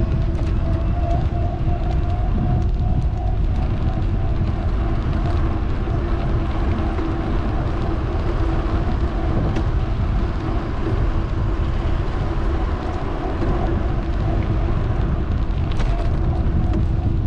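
Wind rushing over an action camera's microphone while riding an electric bike, with road rumble and a steady hum underneath.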